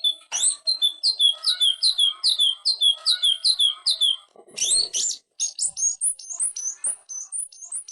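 Cucak ijo (leafbird) singing in full song: a string of clear notes falling in pitch, about two a second, then a short rough burst and a quicker run of higher, rising notes.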